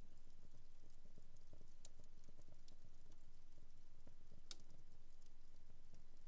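Fire in a home fireplace crackling softly: a steady scatter of small ticks, with two sharper pops about two seconds and four and a half seconds in, over a low steady hum.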